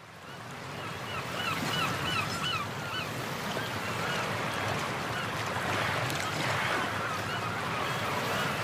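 Birds calling in quick runs of short repeated notes, about three a second, one run starting about a second in and another past the middle, over a steady rushing noise of water and air.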